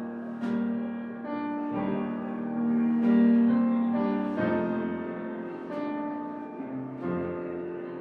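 Slow piano music, with a new note or chord about every second.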